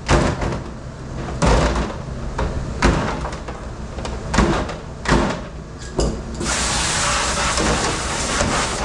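Hard knocks and clatter of dishware and racks at a commercial dishwashing station, about six in the first six seconds. Then a steady rush of water spray sets in about six and a half seconds in.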